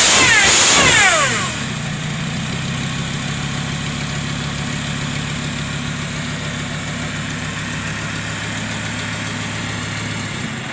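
Supercharged Mercedes diesel engine, running with no exhaust system fitted, coming down off a rev: its supercharger whine sweeps down in pitch over the first second or so, then the engine settles into a steady, even idle.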